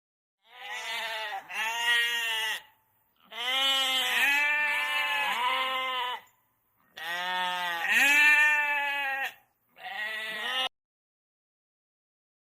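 Sheep bleating repeatedly: four long, wavering bleats with short pauses between them, the last one shorter.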